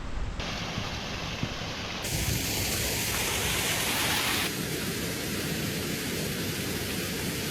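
Water of a small snowmelt-fed waterfall rushing steadily, with a steady rumble underneath. The rush gets louder in steps over the first two seconds and eases a little about four and a half seconds in.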